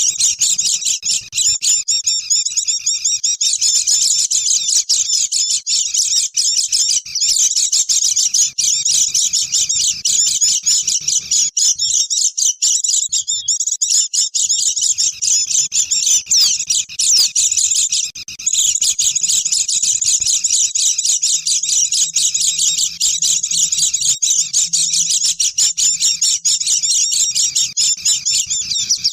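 A flock of white-eyes (pleci) chattering busily: many high, quick chirps and twitters overlapping without a break. It is the kind of recording played as a lure call to draw wild birds in.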